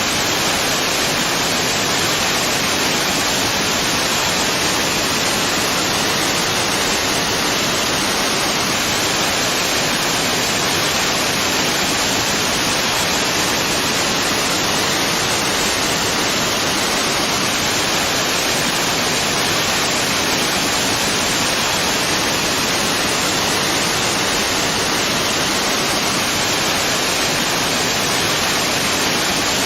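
Waterfall: water falling and rushing in a steady, unbroken wash of noise with a strong hiss, unchanging throughout.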